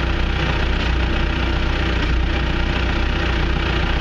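John Deere 650J crawler dozer's diesel engine idling steadily.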